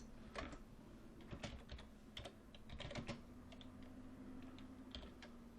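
Faint computer keyboard typing: irregular key clicks, some in quick runs.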